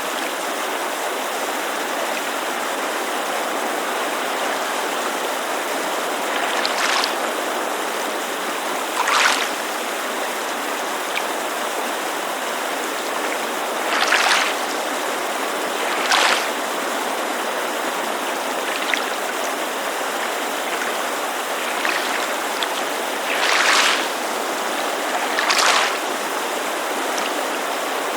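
Steady rushing of a creek, with small waves lapping against a lakeshore in short splashes every few seconds.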